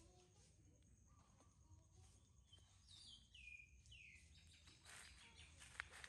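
Near silence, with a bird's faint call about three seconds in: a few short falling chirps, each lower than the last. A single brief click near the end.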